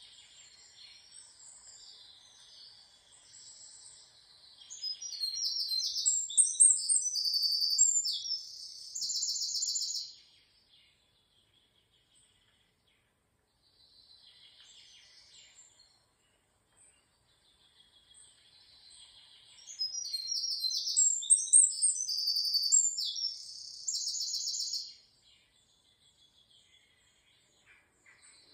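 A songbird singing high-pitched, elaborate songs of chirps and trills: two long phrases of about six seconds each, the second nearly a copy of the first, with softer twittering before and between them.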